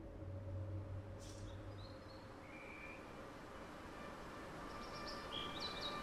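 Faint outdoor ambience: a soft steady hiss with a few short, scattered bird chirps, under a low hum that fades out in the first two seconds.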